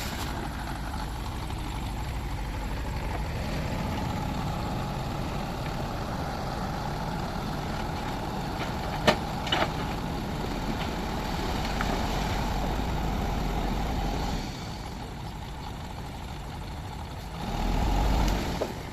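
Heavy diesel engine running steadily, with two sharp knocks about halfway through. It drops quieter about three quarters of the way in, then swells briefly near the end.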